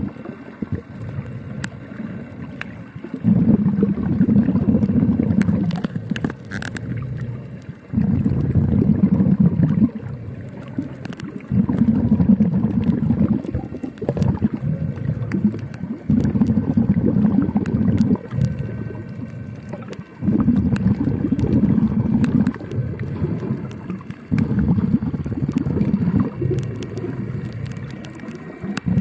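A diver breathing underwater: a rumble of exhaled bubbles lasting about two seconds, repeating about every four seconds, with quieter inhales and scattered faint clicks in between.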